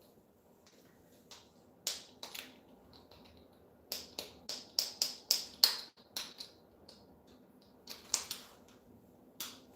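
Short, sharp clicks and cracks, a parrot's beak working on a plastic toy, with a quick run of about three clicks a second in the middle.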